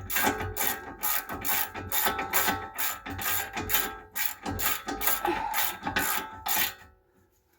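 Hand ratchet wrench clicking as it turns a bolt, about three to four clicks a second, stopping suddenly near the end.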